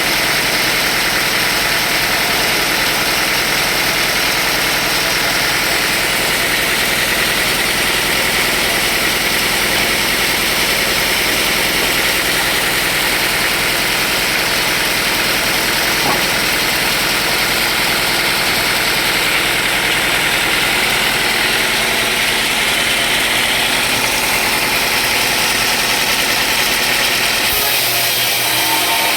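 Sawmill machinery running steadily with a constant motor drone, changing slightly in tone near the end.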